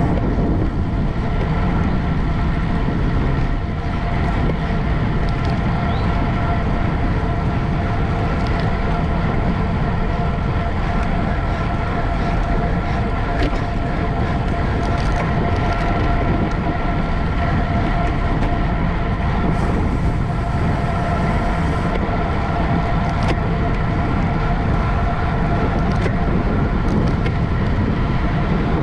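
Steady rush of wind and road noise from a racing bicycle at speed, with a constant thin whine over it and a few faint ticks.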